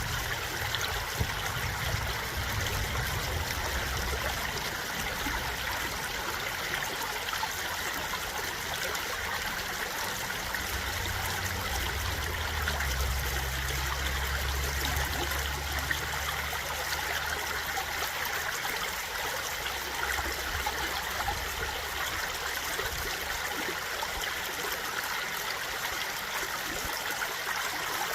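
Stream water flowing and trickling steadily, an even, unbroken rush.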